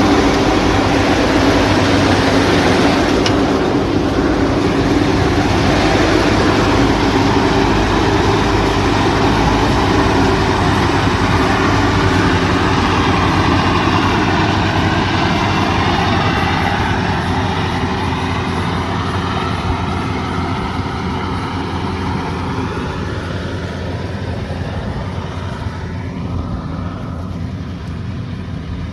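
A heavy machine's engine running steadily, growing gradually quieter over the last ten seconds or so.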